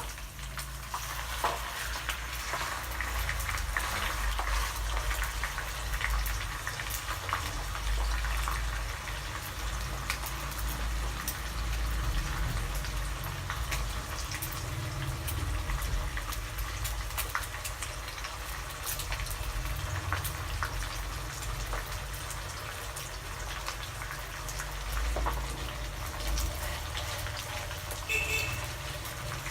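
Pieces of sun-dried cobia frying in hot oil: a steady sizzle with a scatter of small crackles and spits.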